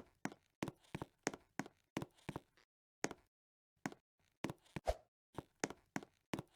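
A run of short, faint knocks or taps, coming quickly and often in pairs for the first couple of seconds, then sparser and more irregular after a brief pause.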